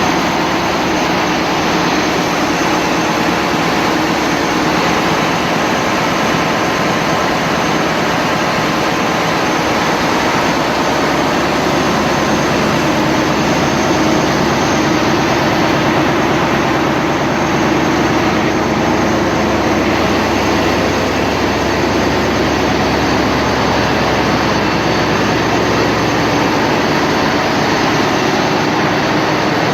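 Mitsubishi S8U-C2 MPTK marine diesel engine running at a steady speed, loud and unchanging, after periodic maintenance.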